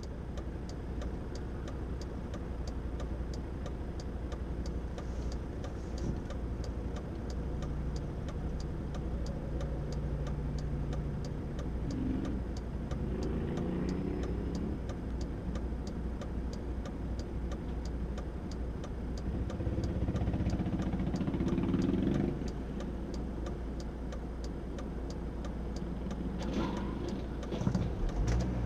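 Car engine idling, heard from inside a stopped car, with a steady run of even ticks. Other engines rise in pitch as they accelerate, about twelve seconds in and again about twenty seconds in, and traffic gets louder near the end as the queue moves off.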